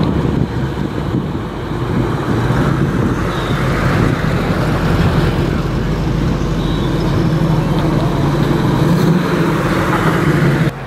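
Engines of classic American cars running as they drive slowly past: a steady, low, unbroken engine sound.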